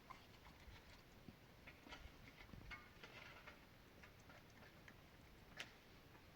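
Near silence: faint scattered small ticks and clicks, with one sharper click about five and a half seconds in.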